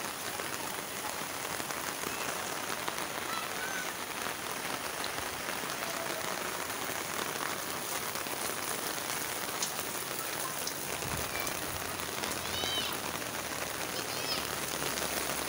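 Steady heavy rain falling on pavement and roofs, an even continuous hiss.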